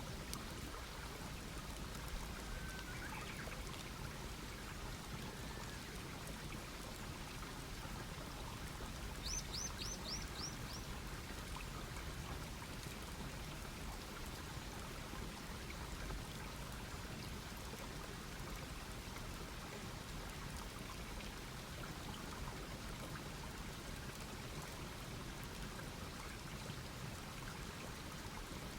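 Wood campfire burning with a steady soft hiss and faint scattered crackles. About nine seconds in, a bird gives a quick run of about six high notes, each falling in pitch.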